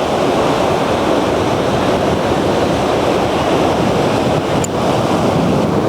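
Strong wind buffeting the microphone, with surf breaking on the beach: a loud, steady rushing noise.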